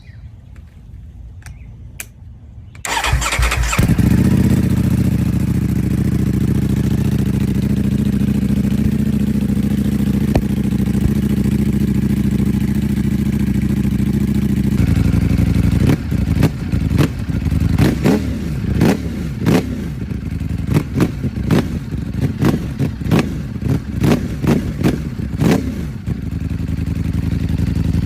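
Motorcycle engine starting about three seconds in and settling into a steady idle, then revved in a quick series of throttle blips through the second half before dropping back to idle.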